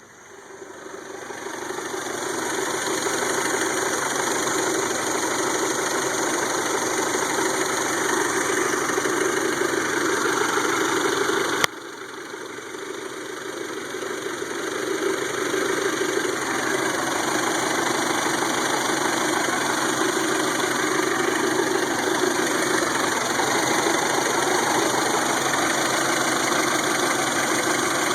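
1992 Toyota Camry's four-cylinder engine running at idle. It builds up over the first couple of seconds, and about twelve seconds in there is a sharp click, after which the sound drops and builds back up over a few seconds.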